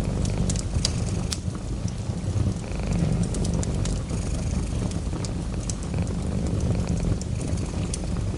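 Cat purring close up, a steady low rumble, with scattered crackles and pops of a wood fire.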